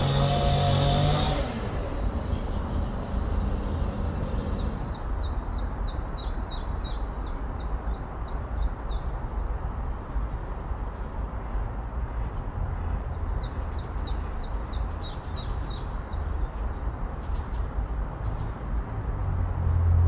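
A small songbird singing runs of quick, repeated high chirps, about three a second, each note falling in pitch; two runs, the second starting about halfway through. Under it a steady low rumble, like wind or distant traffic.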